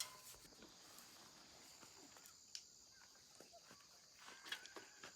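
Faint, scattered clicks and taps of work on a bicycle pedal, over a steady high-pitched hum.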